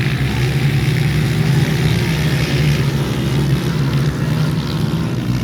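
Honda CRF230 dirt bikes racing, their engines making a steady drone.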